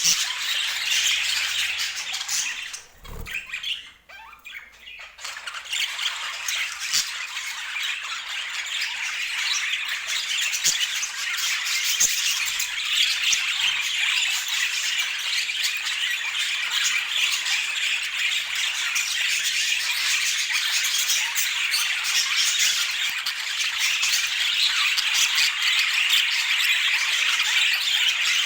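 Budgerigars chattering and squawking without a pause. The sound dips away briefly about three seconds in.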